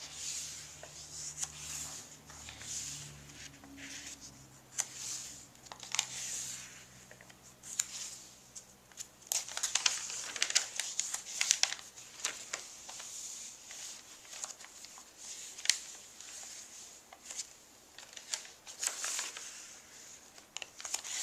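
Paper pages of a handmade journal being turned and handled: irregular dry rustling and crinkling with small taps and flicks.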